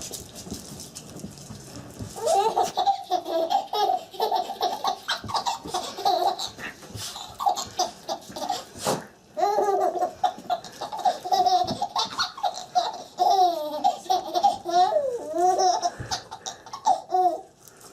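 A young child laughing hard, in repeated high-pitched bursts of giggles and belly laughs that begin about two seconds in, with a short break near the middle.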